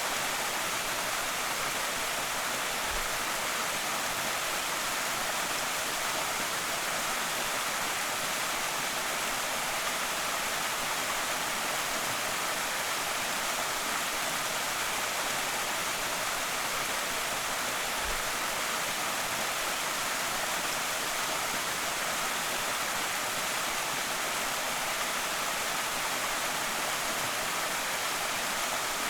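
Creek waterfall: water pouring and splashing in a steady, even rush, with a bright hiss and little low rumble.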